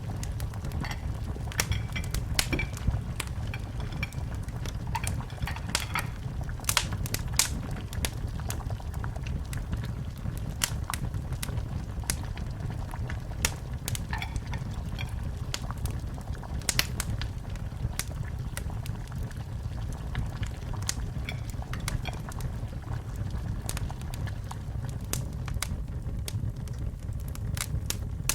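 Fire in a fireplace crackling, with frequent sharp pops over a steady low rumble of flames.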